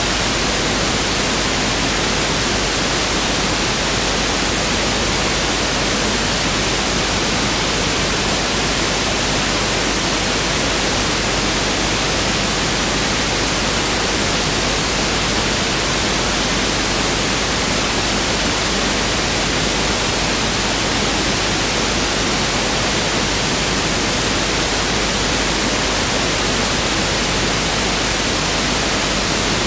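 Pink noise test signal: a steady, unchanging hiss spread evenly across the whole range, with no events or changes.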